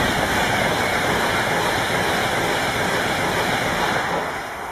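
Virgin Pendolino (Class 390) electric express passing close at high speed: a steady rush of wheel and air noise that drops away a little over four seconds in as the last carriage goes by.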